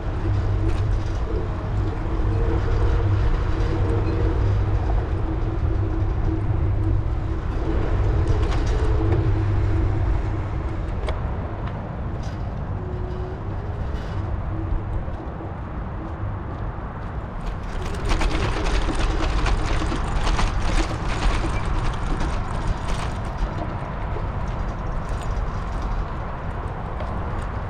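Wind rumbling on the microphone of a moving bicycle, with motor traffic going past. About eighteen seconds in, a brighter hiss full of quick small ticks joins and stays to the end.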